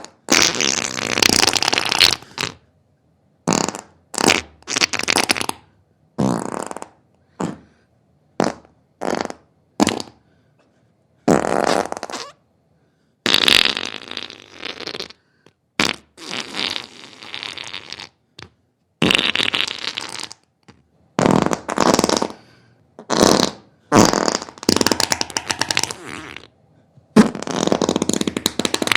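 A series of farts, one after another with short silent gaps between them, some brief and some drawn out over a second or two, with a rasping, fluttering sound.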